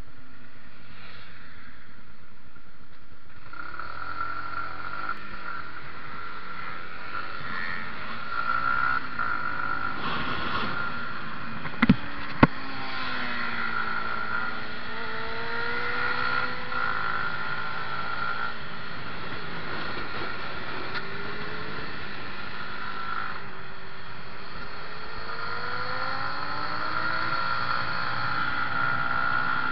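Yamaha MT-125's 125 cc single-cylinder engine heard from on the bike, its revs rising and falling again and again through the lap. Two sharp knocks come about twelve seconds in.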